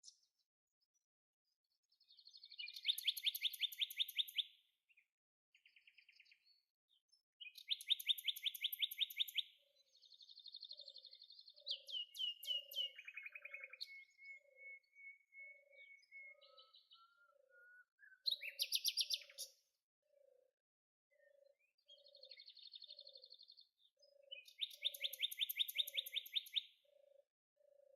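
Songbirds singing: loud, rapid trilled phrases of about two seconds each, repeated several times, with shorter chirps and whistles between them. From about ten seconds in, a soft low note repeats about one and a half times a second underneath.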